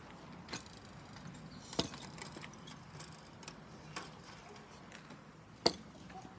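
Chickens pecking at feed: a few scattered sharp taps and knocks over faint background noise, the loudest one near the end.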